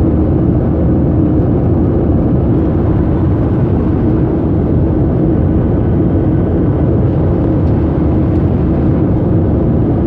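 Steady noise of a Southwest Boeing 737's jet engines and airflow heard from inside the passenger cabin, a deep even rush with a faint steady hum.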